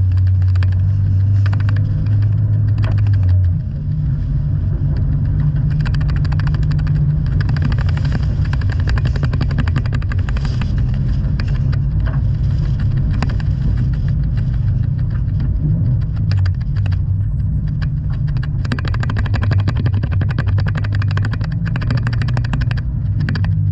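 Toyota 86's flat-four engine running hard through a rallycross lap, its note stepping up in pitch after a brief dip about three and a half seconds in. Many sharp ticks and knocks run through the engine sound.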